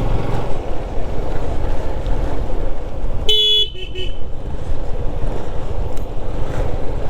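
Steady engine and road noise of a moving motorcycle. A brief vehicle horn toot sounds about halfway through.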